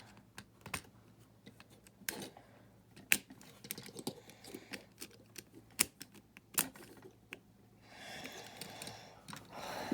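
Plastic building bricks clicking and tapping as small pieces are handled and pressed together, irregular light clicks with a few sharper snaps. A soft rustle near the end.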